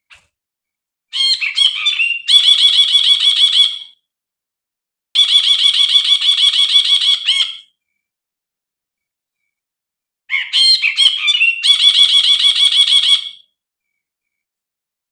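Brinji (a bulbul) singing three phrases, each a few varied notes running into a fast repeated trill of about ten notes a second, with pauses between phrases.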